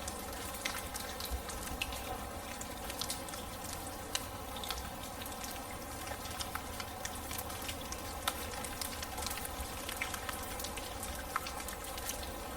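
Steady rain falling, with many separate drops pattering and dripping on a hard surface.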